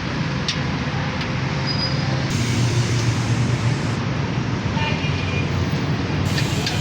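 Small petrol engine of a two-wheeled concrete mixer running steadily at a constant speed, with a low, even hum.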